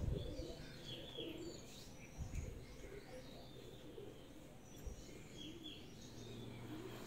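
Faint birds chirping, with low cooing calls in between, and a few soft low thumps.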